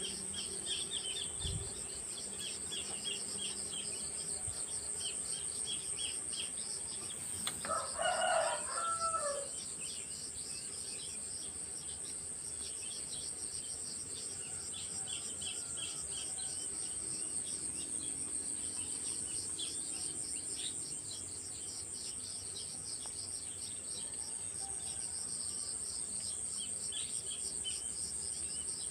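Morning countryside chorus: insects shrill steadily at a high pitch, small birds chirp on and off, and a rooster crows once about eight seconds in.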